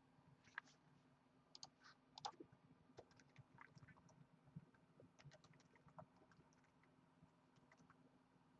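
Faint, irregular light clicks and taps over a low steady hum, most of them in the first two-thirds.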